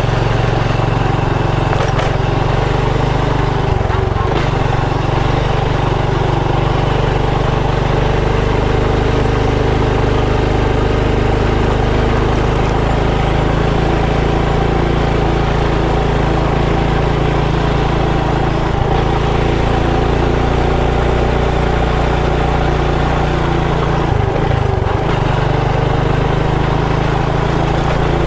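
Motorcycle engine running steadily while under way.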